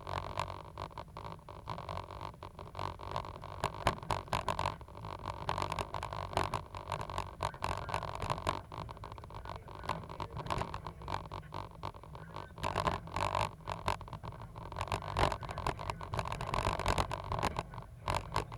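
Caterpillar 320 GC excavator working, its engine and hydraulics running steadily with many sharp clicks and knocks through it. The sound stops abruptly near the end.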